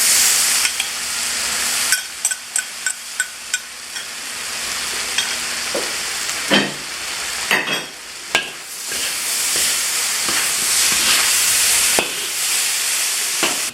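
Chicken and vegetables sizzling in a hot pan while being stirred, with a quick run of about six light metal taps about two seconds in and a few louder knocks of the utensil against the pan near the middle.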